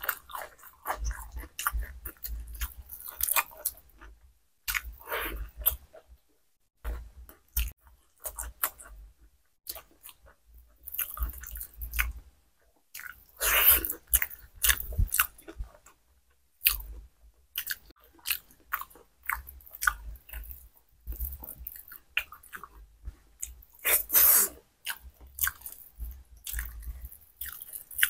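Close-miked chewing and lip-smacking of a person eating khichuri (soft rice and lentils) by hand, with bites of fried okra. Irregular wet mouth sounds and small crunches, louder about halfway through and again near the end.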